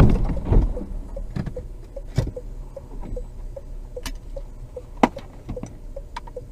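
A loud noise dies away in the first second, then a car's dashboard ticks steadily, about two or three ticks a second, with a few sharp knocks in between.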